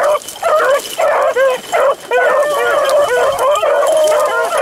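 A pack of beagles giving tongue on a rabbit's track: several dogs' overlapping bawls and chops, sounding almost without a break.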